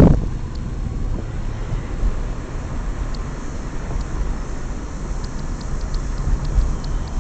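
Car driving slowly, a steady low engine and road rumble.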